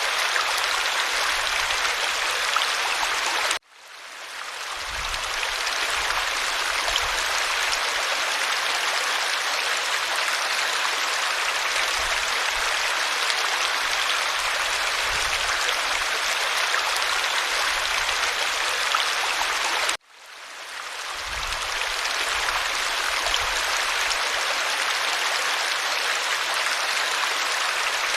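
Steady rushing and babbling of a small stream's running water. It cuts out abruptly twice, about 4 and 20 seconds in, and fades back up over a couple of seconds each time.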